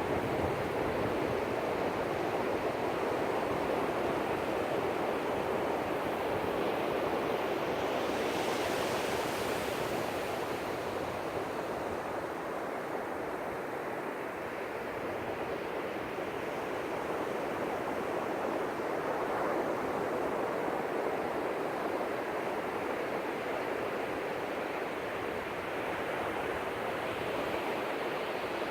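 Ocean surf: waves breaking and washing up the beach in a continuous rush, with one brighter, hissier wash about eight seconds in.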